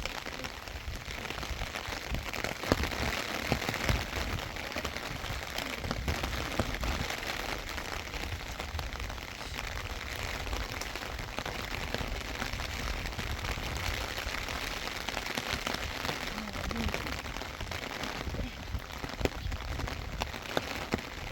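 Steady rain falling, with many small sharp drop hits.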